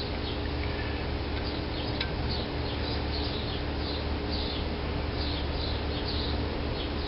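Small birds chirping over and over, with a steady low hum underneath and one faint click about two seconds in.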